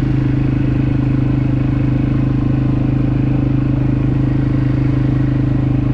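Quad bike engine running at a steady pitch under way, holding an even speed.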